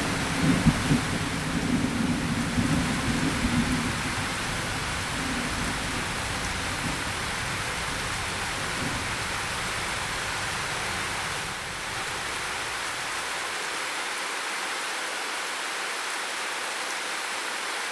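Steady rain falling, an even hiss, with a low roll of thunder rumbling in the first few seconds and dying away by about four seconds in.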